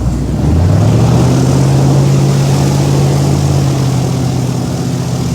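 Rescue boat's engine revving up about half a second in, then running steadily at speed under a heavy load of passengers.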